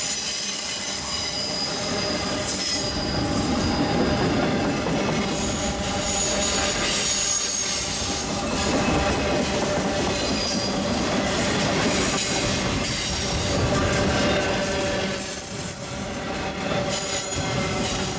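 Loaded flatcars of a freight train rolling past with steady wheel-on-rail noise. High-pitched wheel squeal comes and goes over the rumble.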